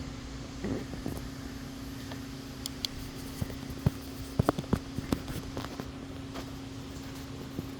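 Scattered light clicks and knocks of tools and string trimmer parts being handled during a tune-up, bunched a little past the middle, over a steady low hum.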